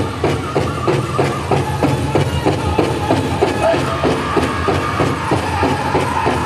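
A powwow drum group playing a chicken dance contest song: the big drum struck in unison at a steady fast beat, about three to four strokes a second, with the singers' high voices over it.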